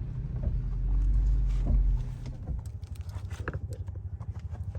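An engine idling with a fast, even pulse, heard most plainly from about halfway in. A heavy low rumble fills the first two seconds, and there are scattered light clicks and knocks.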